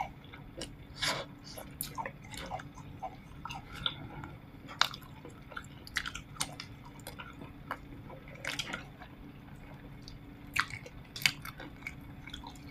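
Close-up eating sounds: mouth smacks and clicks of chewing and gnawing meat off stewed pork rib bones, scattered irregularly over a faint steady hum.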